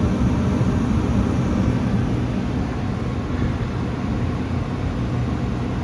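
Goodman gas furnace running with its burners staying lit and its blower fan going: a steady rush of air over a low hum. The flame holds because the flame rod has just been cleaned.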